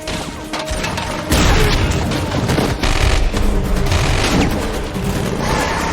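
Film action soundtrack: bursts of gunfire and heavy booms over background score music.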